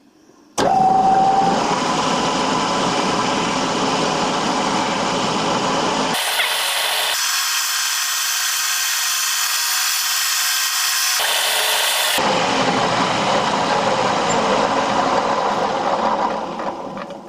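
Milling machine drilling 7 mm holes in an aluminium test piece: the spindle and drill run loud and steady, starting abruptly about half a second in and dying away near the end. For about six seconds in the middle the sound turns thinner and higher.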